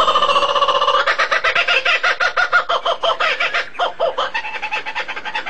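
Bird calls in a fast, rapidly pulsing chatter, about ten notes a second, easing off in the last second or so.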